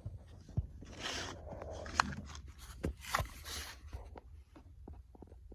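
Handling noises from work on a tractor: a few sharp clicks and knocks with two short scraping rushes, over a steady low hum.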